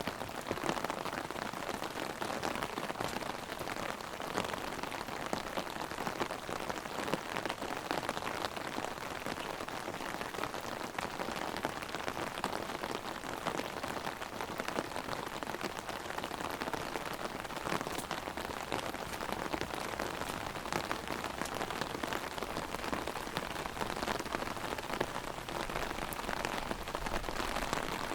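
Heavy rain hitting an open umbrella overhead: a dense, steady patter of many individual drops.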